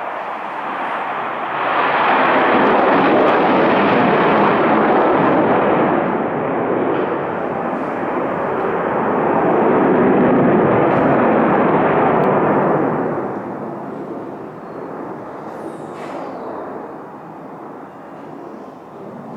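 Military fighter jets in steep climbs and sharp turns, their jet engines making a loud roar. The roar swells for a few seconds, eases, swells again around the middle, then fades to a lower rumble.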